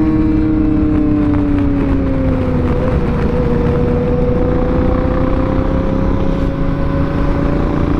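Honda Africa Twin CRF1000L parallel-twin engine with a Yoshimura exhaust, running under way. Its pitch falls over the first two seconds or so as the bike slows, then holds and climbs gently, all over a steady rush of wind and road noise.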